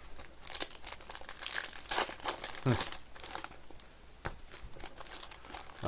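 Crinkling and crackling of a foil trading-card pack wrapper being handled and opened.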